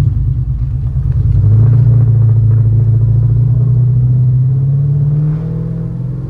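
Car engine pulling under acceleration, its pitch climbing steadily for several seconds and then dropping back near the end.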